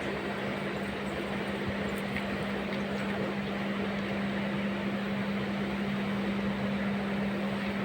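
Passenger train running, heard from inside the coach: a steady rumble with a constant low hum.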